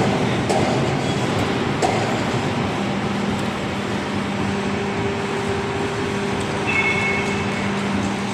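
CNC hydraulic profile bending machine running: a steady hum and drone from its hydraulic drive, with a few sharp knocks in the first two seconds. A higher steady tone joins through the middle, and a brief high squeal comes late on.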